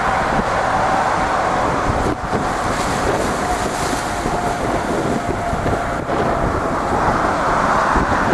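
Boeing 777-200 jet engines running loud, with a steady whine that sinks slightly in pitch. Wind buffets the microphone.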